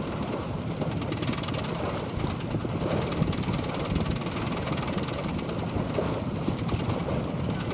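Wind buffeting the microphone and water rushing along the hull of a sailboat under way, a steady noise with a heavy low rumble.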